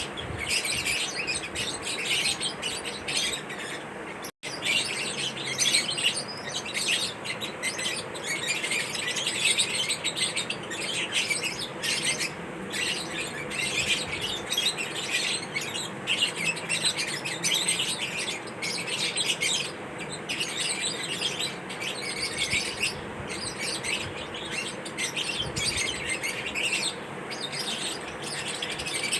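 Lovebirds chirping continuously, with many rapid high chirps overlapping. The sound drops out briefly about four seconds in.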